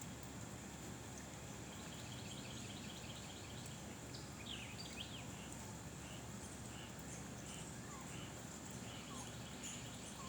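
Outdoor ambience: small birds calling, with a fast chirping trill a few seconds in, a couple of quick downward-sweeping calls, then short chirps repeated about twice a second. Underneath, a steady low background noise and a thin, steady high-pitched hum.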